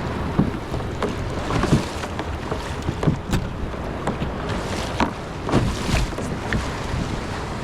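Water splashing and slapping against a kayak's hull at irregular moments over steady water and wind noise.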